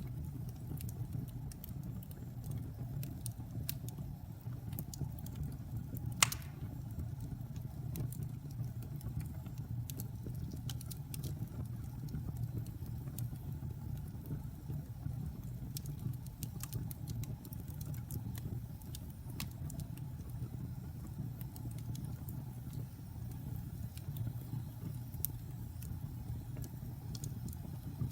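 Fire burning in a fireplace: a steady low rumble of flames with scattered faint crackles and one sharp pop about six seconds in.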